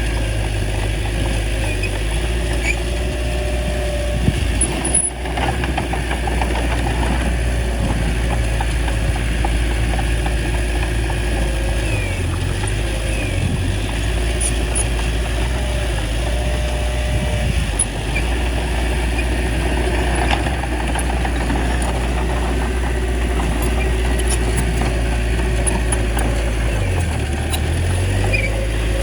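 Bulldozer's diesel engine running steadily while it works, with a short knock about four seconds in and brief dips in the low engine note twice.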